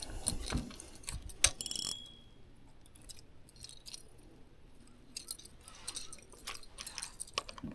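Close handling of fishing tackle: irregular clicks, clinks and light knocks of metal and plastic gear, thickest in the first two seconds, with a brief high ringing tone about two seconds in.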